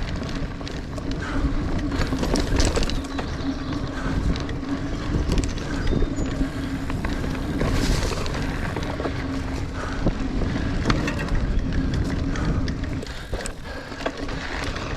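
Niner Air 9 RDO 29er mountain bike riding dirt singletrack: knobby tires rolling and crunching over the trail, with the chain and bike rattling in quick knocks over bumps and wind noise on the mic. A steady low buzz runs under it and stops near the end.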